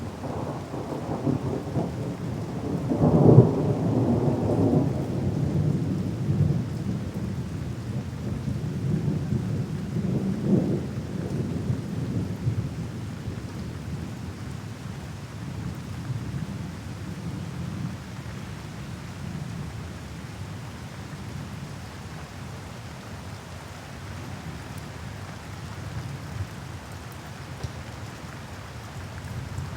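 Thunderstorm: steady rain with rolling thunder. A loud rumble comes about three seconds in and another around ten seconds, each dying away into the rain, and the thunder starts building again near the end.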